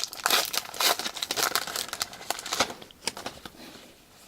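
Plastic wrapper of a pack of 2017 Topps Heritage baseball cards being torn open and crinkled by hand, a dense crackle that thins out after about three seconds.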